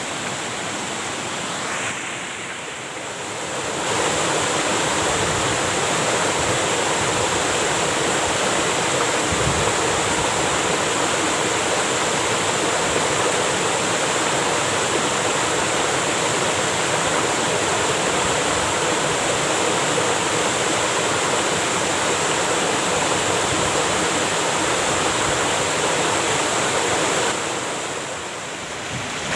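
Waterfall rushing steadily, a loud even roar of falling water. The rush dips briefly and comes back twice, about two seconds in and again near the end.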